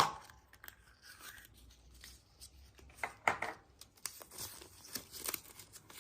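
A sharp click, then a thin wrapper being crinkled and torn open in short irregular bursts, loudest about three seconds in and again near the end.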